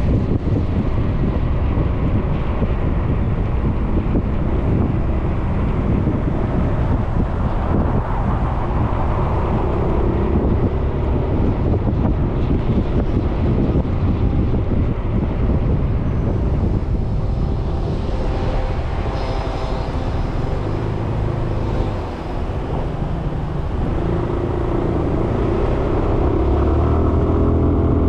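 Suzuki Burgman 400 scooter's single-cylinder engine running under way, mixed with wind noise on the microphone and road rumble. The sound dips briefly about two-thirds of the way through, then builds again near the end.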